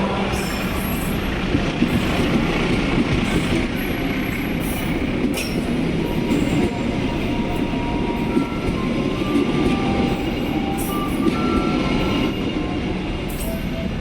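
Train running on rails: a steady rumble of wheels with short high-pitched squeals and scattered sharp ticks.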